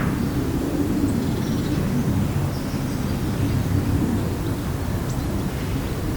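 Steady low rumble of outdoor background noise, with a few faint, short bird chirps high above it.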